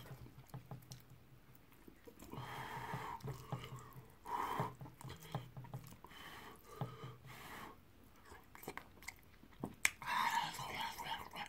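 Close-up mouth sounds of a person eating fufu and egusi soup by hand: soft, wet chewing and lip smacks, with a few short low hums.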